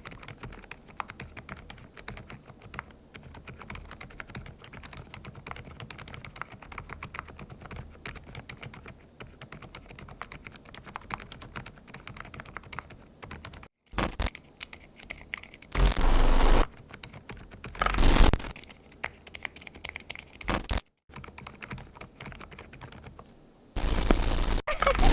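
Fast typing on a mechanical keyboard with Osume Little Ghost silent linear switches: a dense run of quiet keystrokes. About 14 seconds in, the typing stops and a few short, much louder sounds follow, unlike the keystrokes.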